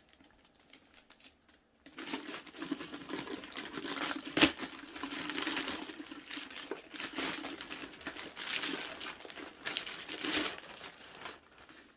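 Packaging crinkling and rustling as a boxed collectible helmet is unpacked, starting about two seconds in, with one sharp click about four seconds in.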